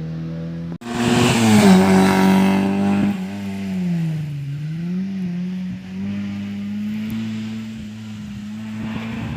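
Rally car engine at high revs. After an abrupt break less than a second in, it comes back loud with the pitch climbing. Around four seconds in the pitch dips and rises again, then the engine runs at steady revs.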